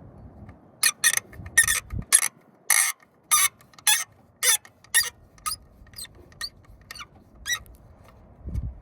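A run of short, high-pitched squeaks, about two a second, starting about a second in and growing fainter toward the end.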